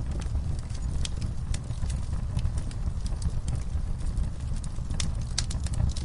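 Wood fire crackling: irregular sharp pops and snaps over a steady low rumble of the burning fire, with a quick cluster of pops about five seconds in.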